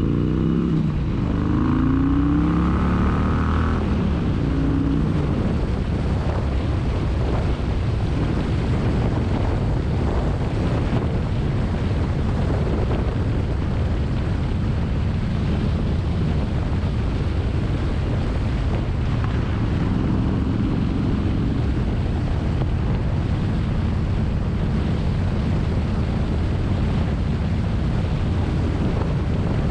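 Motorcycle engine accelerating, its pitch rising over the first few seconds, then cruising steadily under heavy wind noise on the microphone. The engine note climbs again about twenty seconds in.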